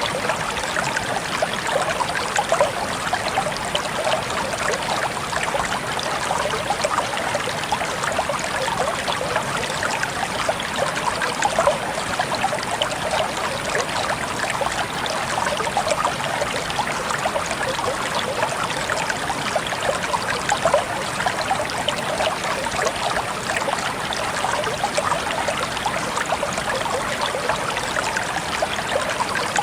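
Water trickling and splashing steadily, a continuous dense patter of small droplets.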